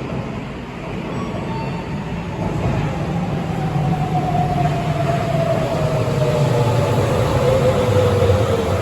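Rubber-tyred Sapporo Namboku Line 5000-series subway train running, heard from inside the car: a steady low rumble that grows louder, with a clear tone slowly falling in pitch over it.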